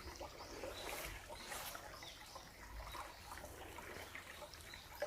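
A small stream trickling, with faint, short bird chirps now and then.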